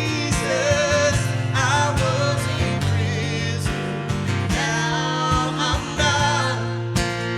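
Worship band music: guitar chords with a melody line and some singing over them.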